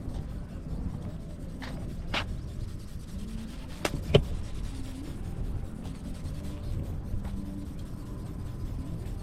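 Strong wind buffeting the microphone as a steady low rumble. A few sharp clicks or taps come about two and four seconds in.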